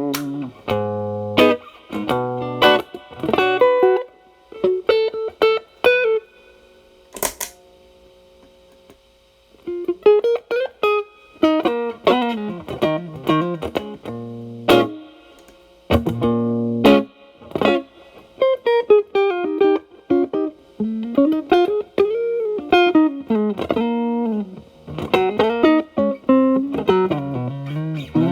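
Fender Telecaster played through an Xotic BB overdrive pedal set to gain 8, into a Marshall Valvestate amp's clean channel, giving a mildly overdriven tone. It plays improvised blues-style lines with string bends and chord stabs. About a quarter of the way in it pauses for a few seconds, broken by a single sharp click.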